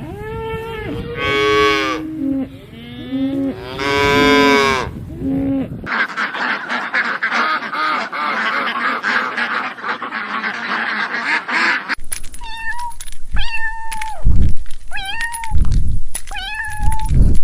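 Farm animals calling in three abruptly cut clips: two long, wavering calls first, then a dense chattering din, then a run of short repeated calls over low thumps.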